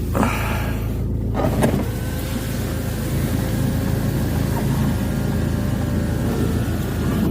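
2004 Hyundai Santa Fe's engine idling steadily, with a faint steady whine joining for several seconds in the middle and a couple of light clicks near the start.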